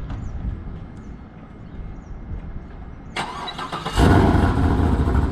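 Chevrolet Camaro 2SS V8 cold start: the starter cranks a little past three seconds in and the engine catches about four seconds in, settling into a loud, steady high idle.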